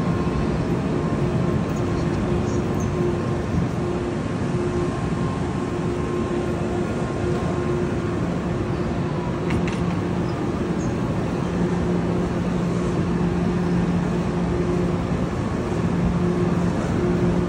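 A stationary high-speed electric train standing at the platform with its onboard equipment running: a steady hum with a low drone over an even rushing noise.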